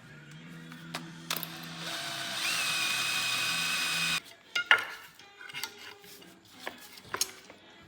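A power tool runs steadily for about two seconds with a high whine, then stops; sharp metallic clicks and clanks of tools and engine parts follow, over quiet background music.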